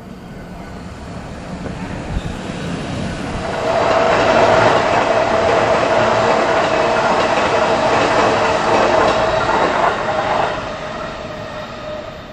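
Electric train passing close by: the sound builds over about four seconds, holds loud with a steady high tone for several seconds, then fades away near the end.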